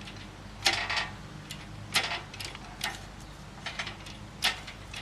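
Irregular sharp metal clicks and clanks, roughly one or two a second, as an engine hoist lifts a Subaru EG33 engine out of the engine bay, over a steady low hum.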